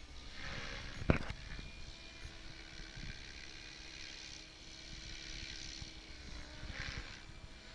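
SAB Goblin 700 electric RC helicopter in flight, its motor and rotors giving a steady whine with low wind rumble on the microphone. A sharp knock comes about a second in.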